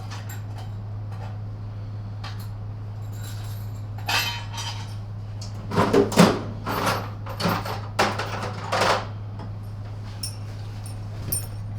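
Metal tools clinking and clattering as they are handled and sorted, in a few bursts of sharp clicks, over a steady low hum.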